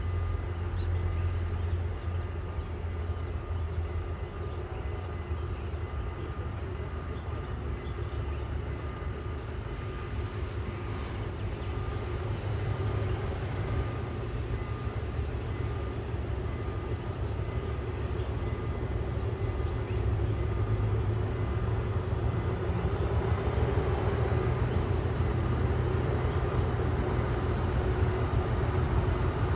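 Diesel train running, a steady low engine rumble with faint steady whining tones above it, growing gradually louder over the second half.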